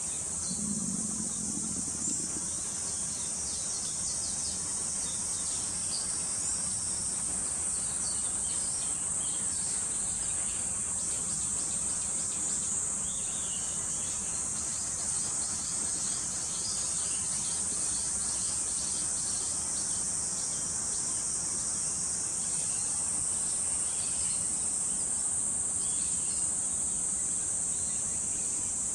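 Steady high-pitched drone of insects, with scattered short bird chirps through it.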